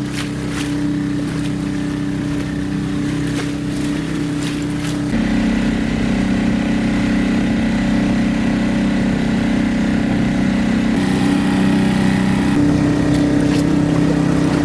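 Small boat's engine running steadily at cruising speed, its hum changing abruptly about five seconds in and again near eleven seconds.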